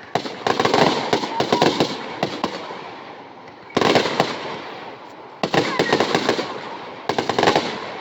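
Fireworks display: about four volleys of sharp crackling reports, each starting suddenly and fading away over a second or two.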